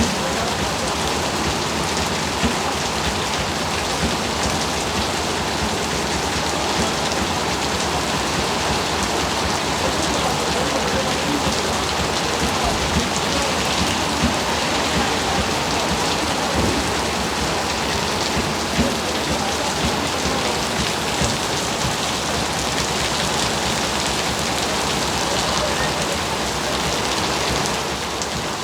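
Heavy rain falling steadily, an even dense hiss with scattered drop impacts.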